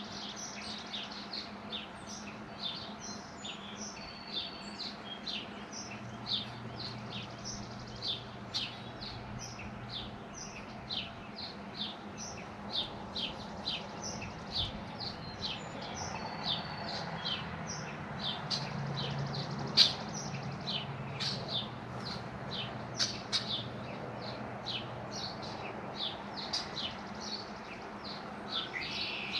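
Small birds chirping steadily, short high chirps two or three a second, over a faint low steady hum. A single sharp click about two-thirds of the way through.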